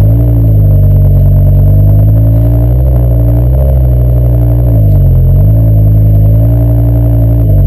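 BMW M6 engine on its stock exhaust, breathing through a K&N intake with RPi intake scoops, running loud with its pitch rising and falling several times as the revs go up and down.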